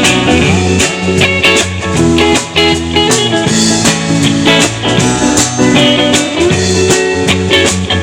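Live band playing an instrumental stretch between sung lines: guitar and bass over a steady drum beat, with sliding guitar notes.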